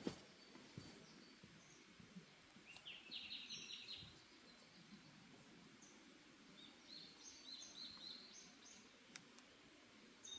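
Forest birds singing faintly over a quiet background hiss: a quick series of short chirping notes about three seconds in, another burst of chirps around seven seconds, and a few single high chirps in between. A sharp click at the very start is the loudest moment.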